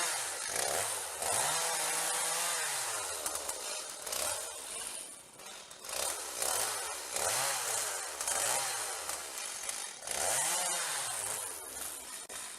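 Chainsaw cutting wood, its engine pitch dropping and climbing again over and over as the chain bites into the log and frees up.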